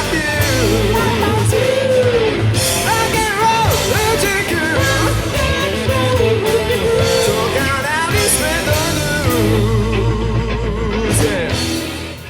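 Live rock band playing an instrumental passage: a lead line with bends and vibrato over bass and drums. The music cuts away sharply near the end.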